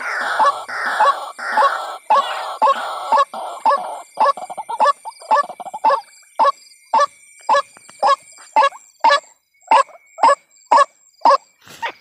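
White-breasted waterhen calling: a long series of harsh, croaking notes, rapid and raspy at first, then settling into separate, evenly spaced calls about two a second.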